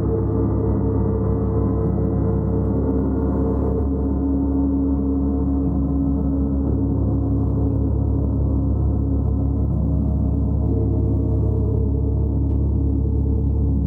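A gong played continuously: a dense, sustained wash of low shimmering tones whose strongest notes shift as it sounds.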